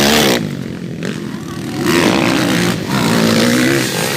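Motocross dirt bike engines revving, rising and falling in pitch. The sound drops off just after the start and swells again about halfway through.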